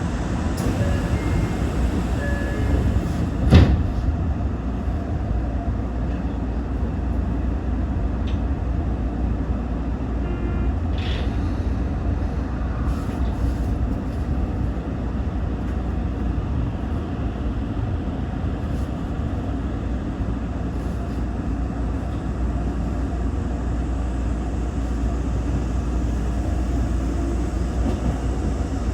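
Toyo Rapid Railway 2000 series electric train pulling away from a station stop and running, a steady low rumble. A single sharp clunk about three and a half seconds in.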